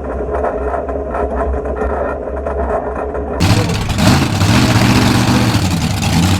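Monster truck engines running with a steady low drone. About three and a half seconds in, the sound turns suddenly much louder as an engine revs, its pitch rising and falling.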